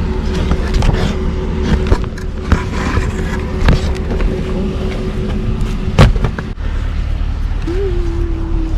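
A vehicle engine running steadily, with scattered knocks and clatter from items being handled; one loud knock comes about six seconds in. Near the end there is a short pitched squeak that rises and then holds steady.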